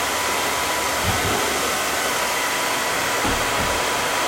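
Handheld hair dryer blowing steadily, with a couple of soft low thumps about a second in and again near three seconds.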